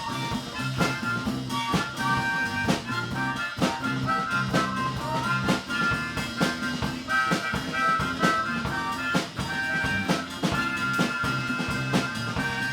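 Live band playing an instrumental break of a rock-blues song: a drum kit keeping a steady beat under a bass line and a lead instrument playing held notes.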